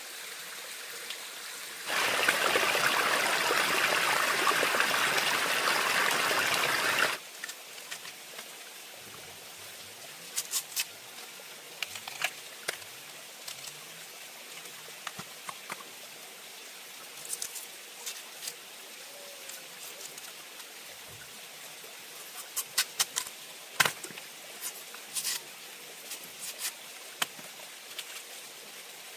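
Water running hard for about five seconds and stopping abruptly, then scattered light clicks and knocks over a faint steady hiss.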